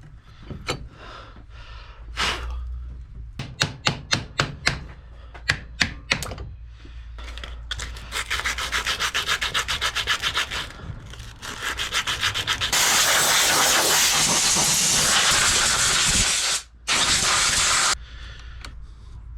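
A run of sharp strikes on metal, then a handheld power tool rasping on metal, first in quick pulses and then running steadily and loudly, with one brief stop near the end, while two starter motors are being worked into one.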